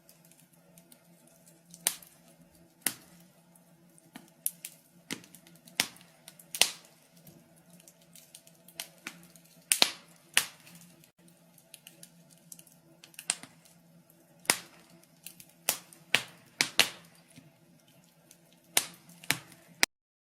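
Wood fire crackling in a fireplace: irregular sharp pops and snaps every second or so over a faint low steady hum. The sound cuts off suddenly near the end.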